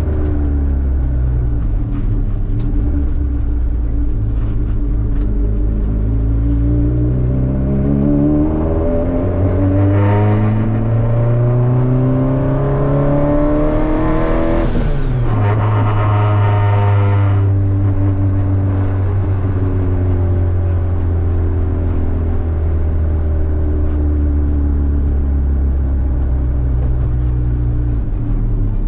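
Honda Civic engine accelerating in one long pull, its pitch climbing for over ten seconds with a thin rising whine near the top. It then drops back sharply and runs steady at cruising speed.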